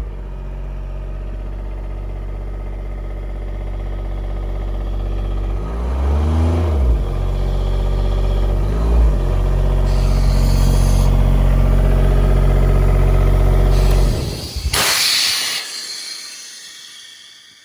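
Airman PDS100SC portable diesel engine air compressor running steadily. Around six seconds in the engine speed shifts up and down, and it then runs louder and harder. At about fourteen seconds the engine stops, a burst of loud hiss follows a second later, and the sound dies away.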